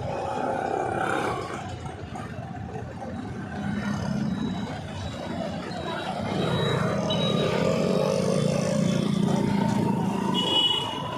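Road traffic with vehicle engines running, louder for a few seconds from about six seconds in.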